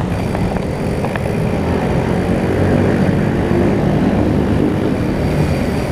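Steady low rumble of wind and road noise on a moving rider's microphone, with vehicle engine drone mixed in, rising slightly in level about a third of the way in.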